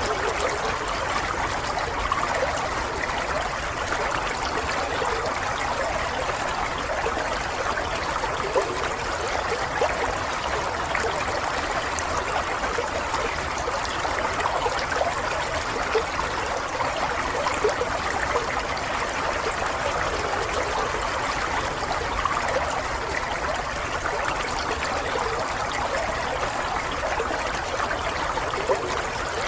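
Water running steadily over stones in a small stream, a continuous trickling and babbling without pause.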